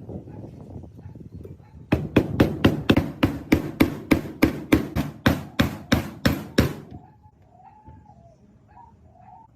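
A hammer striking metal in a quick, even run of blows, about four a second for nearly five seconds.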